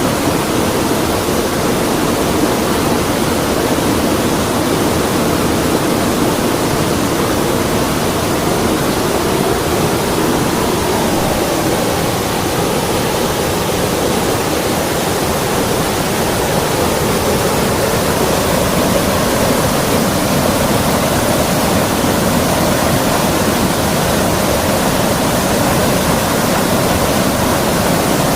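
Creek water rushing, a loud, steady noise with no breaks.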